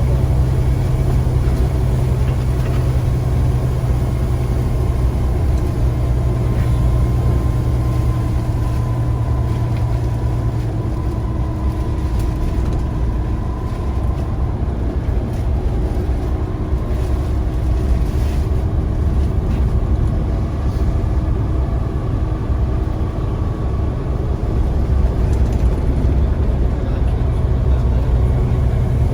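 Scania CN94UA single-decker bus's diesel engine running steadily, with a low hum throughout and a faint whine that comes in around the middle.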